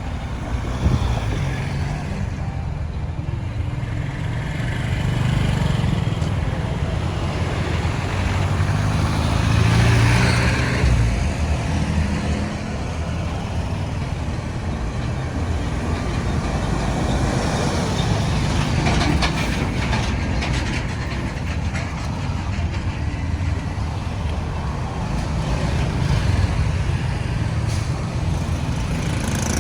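Road traffic: engines and tyres of passing motor vehicles running continuously, with one vehicle passing louder about ten seconds in.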